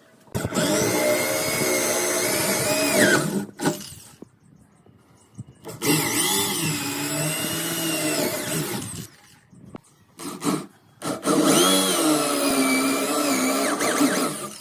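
Handheld electric power tool working solid wood, run in three bursts of about three seconds each with short pauses between, its motor pitch wavering as it takes load.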